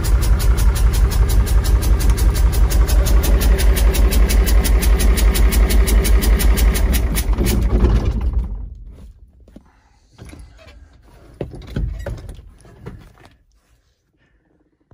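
1980 Bedford TK truck engine idling with its exhaust cut off, a steady, even chuff at each firing; it has a blown head gasket with heavy blow-by. About eight seconds in the engine is shut off and runs down, followed by a few faint knocks and a thump.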